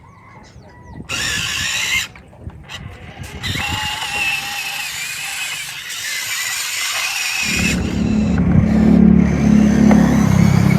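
Small electric motors of radio-controlled construction machines whining in short bursts, then a louder, lower steady drone from about three-quarters of the way through.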